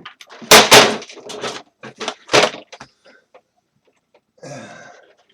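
Knocks and scraping clatter of parts being handled while a space heater is taken apart. The loudest knocks come about half a second in and again about two and a half seconds in, with lighter scrapes between them.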